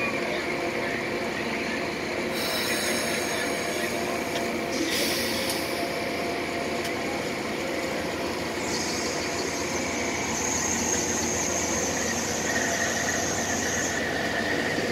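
Amtrak passenger cars rolling past at close range, their steel wheels rumbling steadily on the rails. A high-pitched squeal sets in about nine seconds in, and a lower squeal joins it near the end.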